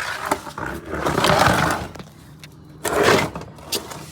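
Plastic bucket scraping and knocking across the ground as it is pushed under a car, in two main scraping bursts about a second in and about three seconds in.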